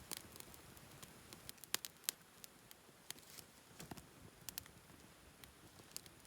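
Campfire wood crackling: faint, irregular sharp snaps and pops, a dozen or so spread unevenly.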